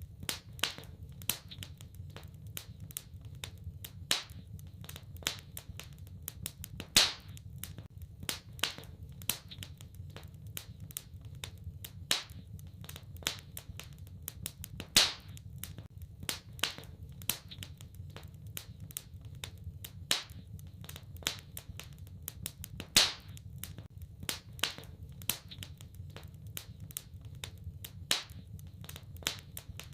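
Wood fire crackling in a fireplace: many sharp snaps and pops at irregular intervals, a few of them louder, over a steady low rumble.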